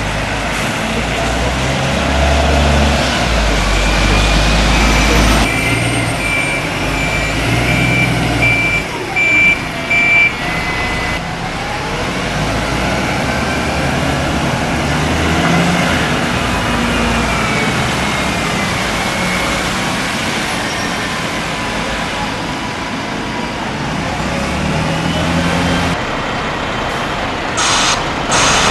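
A heavy vehicle's engine running steadily, with a run of about six short, evenly spaced high beeps a few seconds in.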